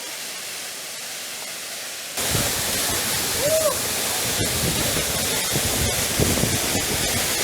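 Rushing water of a waterfall: a steady hiss, then about two seconds in it cuts abruptly to a louder, fuller roar of falling water.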